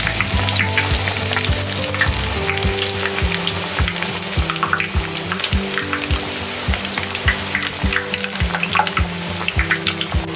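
A besan-battered, breadcrumb-coated bread pakora deep frying in hot oil, with a steady sizzle and a dense crackle of small pops, during its first light fry.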